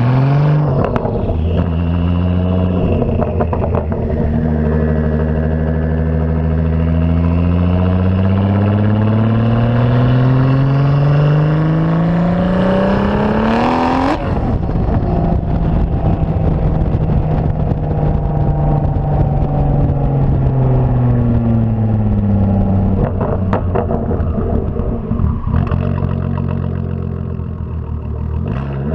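Turbocharged VR6 engine and exhaust of a 2004 VW R32 pulling hard, its pitch climbing steadily for about thirteen seconds. About fourteen seconds in it drops off suddenly with a brief rush of noise, then holds a steadier pitch that slowly falls. It starts to rise again near the end.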